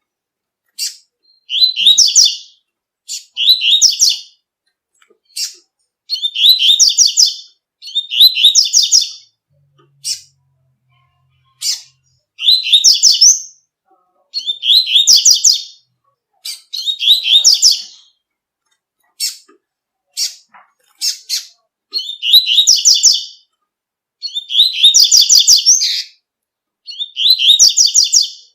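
Double-collared seedeater (coleiro) singing the 'tui-tui' song: about ten loud, bright, high phrases of about a second each, repeated every couple of seconds, with short single sharp notes between them.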